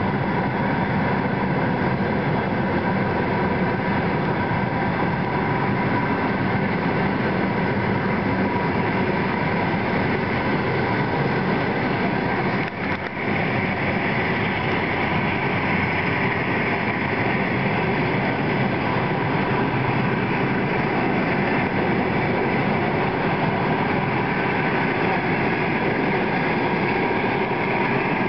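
Long-distance passenger coaches rolling past on the adjacent track as the train pulls out of the station, with a steady noise of wheels on rails.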